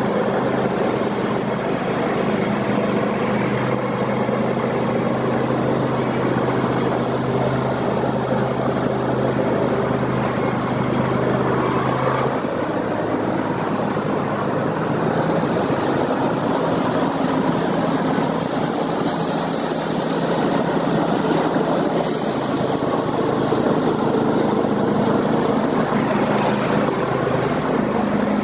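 Sawmill machinery running: a loud, steady engine drone that shifts to a lower pitch about twelve seconds in, with brief higher-pitched sounds near the twenty-second mark.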